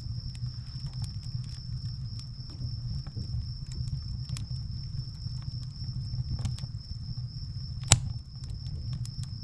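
Burning firewood crackling, with scattered small pops and one loud sharp crack about eight seconds in, over a steady low rumble. A thin, steady high-pitched tone runs throughout.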